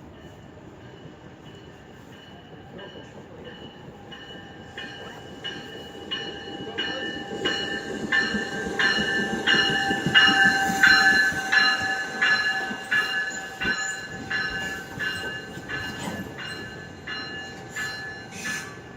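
NJ Transit train of Bombardier MultiLevel coaches with an ALP-45DP dual-mode locomotive rolling through the station. Its wheels click over rail joints in a steady rhythm of about one and a half clicks a second, growing louder to a peak about halfway through and then fading, over a steady high whine.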